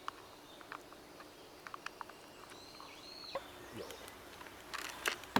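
Quiet outdoor background with scattered small clicks, a brief high whistle in the middle, and a single sharp knock near the end.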